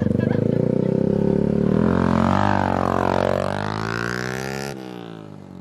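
Restored old motorcycle's engine running with a buzzing, pulsing note, then revving so the pitch rises and falls. It breaks off sharply near the end and fades.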